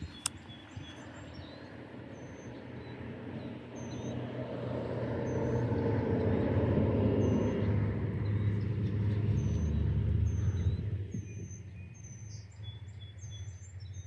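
A vehicle driving past: a low engine and road sound swells over several seconds, holds loudest for a few seconds, then falls away about eleven seconds in. Short high bird chirps repeat throughout.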